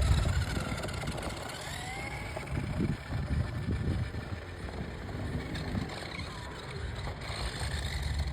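Hot Wheels Mega Wrex Alive remote-control toy monster truck running: a small electric motor and gears whining over a low rumble, the whine rising in pitch about two seconds in.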